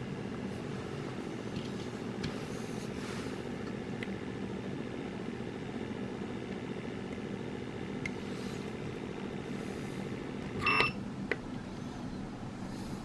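Steady mechanical hum, with a short high-pitched squeal about eleven seconds in.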